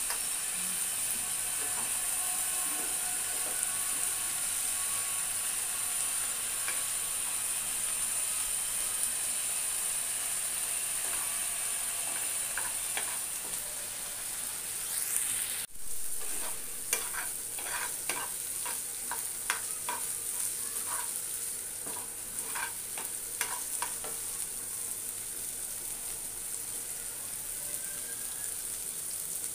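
Loyta (Bombay duck) fish frying in oil in a wok, sizzling steadily while a steel spatula stirs and breaks it up. In the second half the spatula scrapes and knocks against the pan many times.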